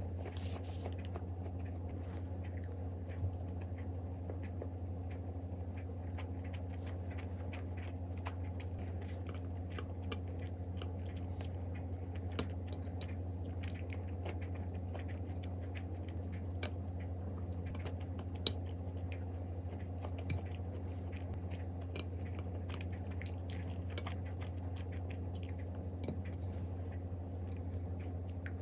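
Steady low hum with irregular small clicks and crunches throughout, and a few sharper ticks standing out.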